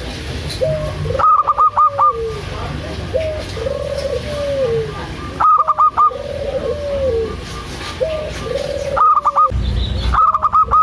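Zebra doves (perkutut) cooing: a repeated low phrase of a short note followed by a longer wavering coo. About every four seconds it is broken by a quick run of four or five sharper, higher notes, and near the end the higher notes run on in a long, fast series.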